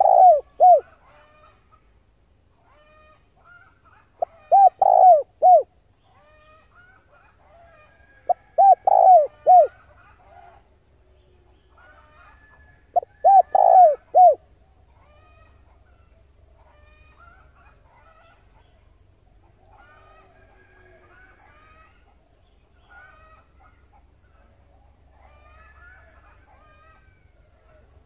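Male spotted dove (tekukur) cooing: four short phrases of a few notes each, about four seconds apart, then only faint chirping of other small birds for the second half. This is the male's call, used as a lure to draw wild spotted doves.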